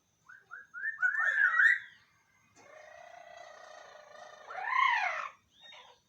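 Parrots calling: a few short chirps and a loud warbling whistle in the first two seconds, then a long steady nasal call, and a loud rising-and-falling squawk about five seconds in.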